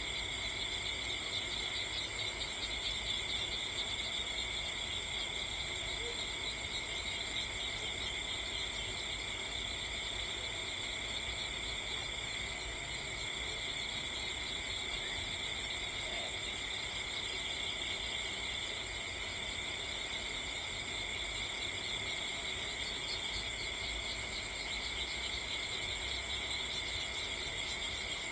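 Steady insect chorus trilling at several high pitches without a break.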